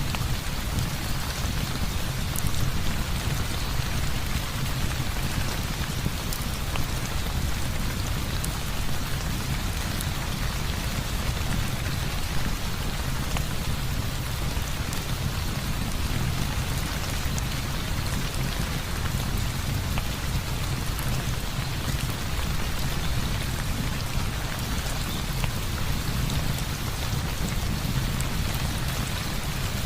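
Heavy rain falling steadily, with a deep low rumble underneath and scattered small ticks.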